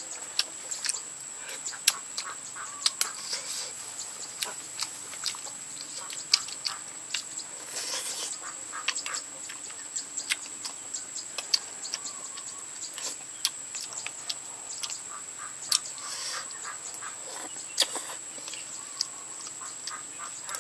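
Close-up eating sounds from a person chewing stewed buffalo leg meat and tendon: irregular wet smacking and chewing clicks. A steady high-pitched whine runs underneath.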